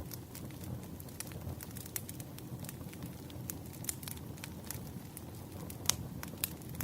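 Campfire crackling: a steady low rumble of burning wood with frequent small pops, and a sharper pop about six seconds in.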